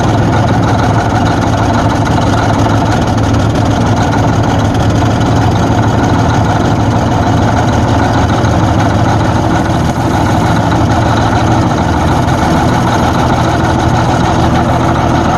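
Caterpillar D9G bulldozer's engine running steadily at idle.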